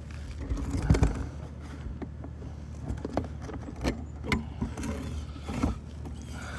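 Irregular knocks and metallic rattles of gear being handled, about a dozen, the loudest about a second in, over a steady low hum.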